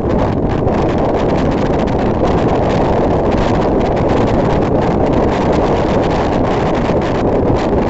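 Steady rush of wind buffeting the microphone over the running rumble of a moving passenger train.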